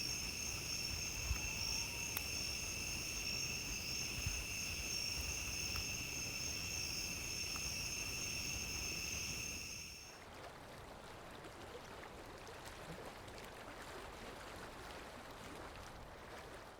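Crickets trilling steadily at night, with a few faint crackles from a campfire. About ten seconds in the trilling cuts off abruptly, leaving a quieter steady hiss.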